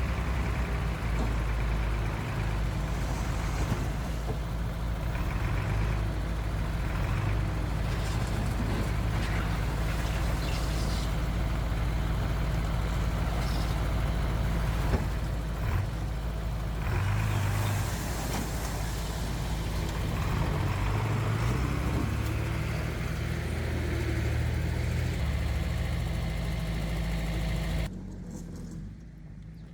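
Heavy diesel earthmoving machinery running steadily, with a few brief knocks about halfway through; the sound drops away sharply near the end.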